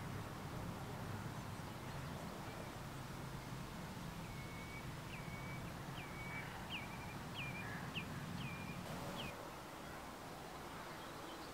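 A small bird singing a run of about seven short whistled notes, each ending in a quick upward flick, repeated roughly every two-thirds of a second from about four seconds in. Underneath is a low, steady outdoor rumble that drops off about nine seconds in.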